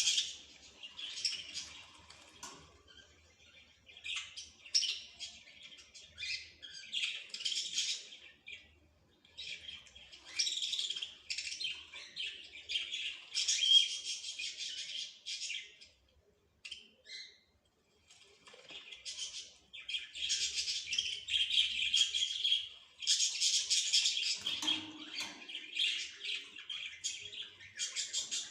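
Small birds chirping and twittering in quick, dense bouts, with a short lull about halfway through.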